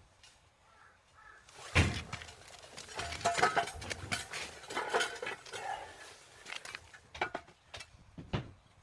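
Metal pieces clanking and knocking together in an irregular run of sharp impacts with short ringing, the loudest about two seconds in.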